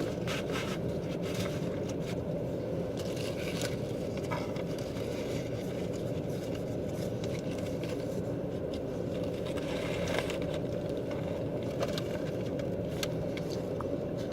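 Steady low rumble of a car cabin, with scattered small clicks, crackles and scrapes of someone eating a burger: chewing and handling the food wrapper.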